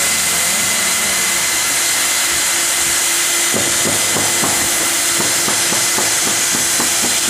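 Automatic hot-air roof-profile welder running steadily: a constant hiss of blown hot air with a thin high whine from its blower.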